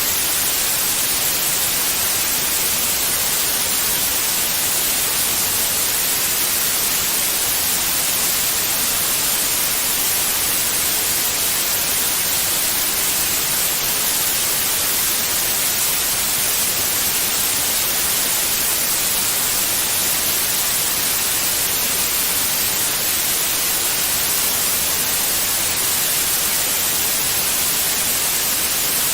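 Steady white noise: an even, unchanging hiss, brightest in the high end, with no breaks or changes in level.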